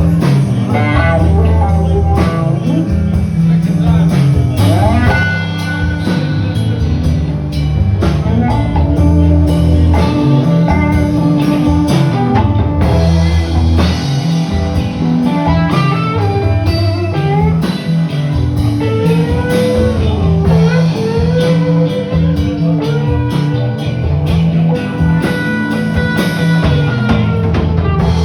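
Live blues-rock band playing: a guitar lead with bent, sliding notes over bass and drums.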